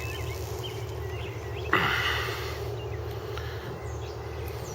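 Outdoor ambience of birds chirping near the start over a steady low rumble, with a brief rush of noise about two seconds in that fades away.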